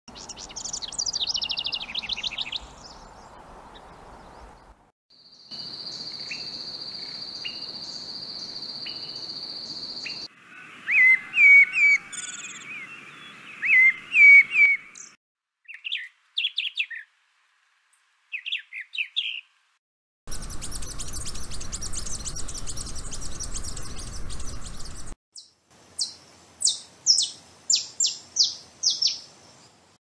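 Spliced field recordings of birdsong: House Wren songs, fast chattering runs of notes, for about the first fifteen seconds, then Tropical Mockingbird song phrases. A steady high whine runs behind one of the early clips.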